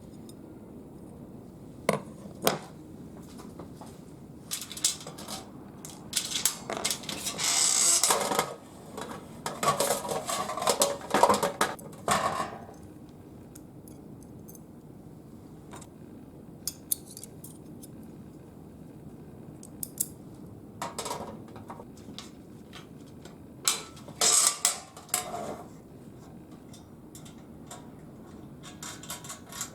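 Metal parts of a homemade folding fire pit clinking and clattering as they are handled, in bursts of sharp clanks. The busiest stretch is in the first half, with a few shorter bursts later on.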